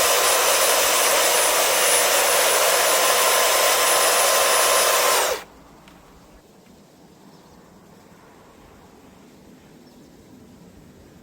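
Electric power tool motor running at a steady high speed, then switched off about five seconds in, its whine dropping in pitch as it cuts out, leaving only faint background noise.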